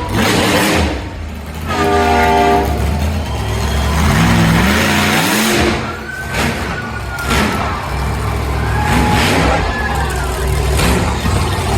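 Monster truck engines running loud and revving, their pitch climbing in short rises. A short steady tone sounds about two seconds in.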